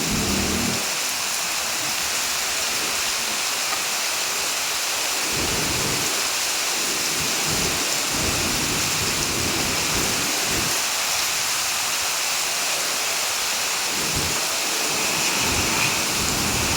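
Heavy rain falling in a steady, dense hiss, with low rumbles coming and going under it.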